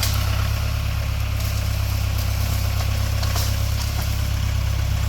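Tractor engine running steadily at an even, low speed.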